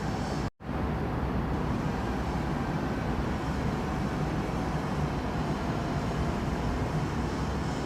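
Steady, noisy rumble of background noise, heaviest in the low end, broken by a sudden brief dropout about half a second in.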